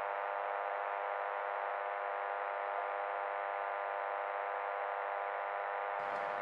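A steady electronic buzz with many evenly spaced overtones, held at one pitch and band-limited like an AM radio signal. About six seconds in it gives way to a wider radio hiss.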